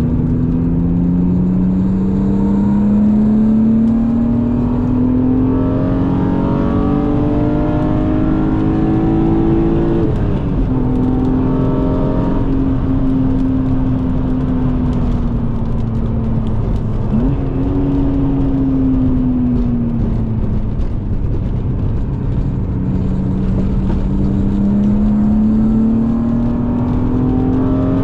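BMW E36 M3's straight-six engine, heard from inside the cabin and fitted with an aftermarket intake and exhaust, pulling hard. The revs climb steadily for about ten seconds, drop suddenly, sag with one quick brief blip in the middle, then climb again near the end.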